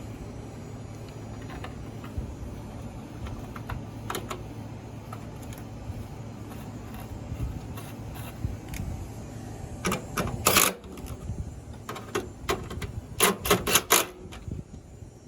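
Metal clicks and clinks of hand tools and car parts being handled, scattered at first, then two quick runs of sharp clicks about ten and thirteen seconds in, over a steady low hum.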